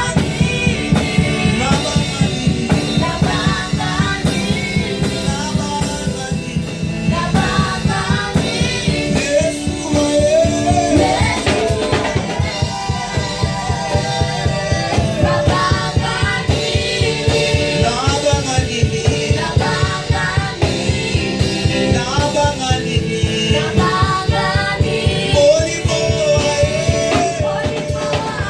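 Live gospel worship music: a band with a fast, steady drum beat, with singing lines over it.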